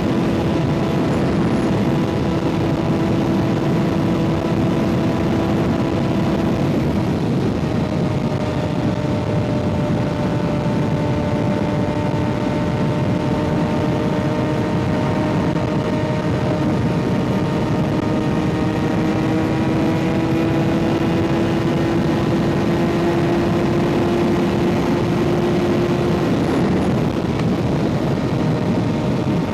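Kawasaki ZX-6R inline-four with an M4 exhaust running at steady cruising revs over a steady rushing noise. The pitch climbs slowly for about twenty seconds, then drops about three-quarters of the way through as the revs fall.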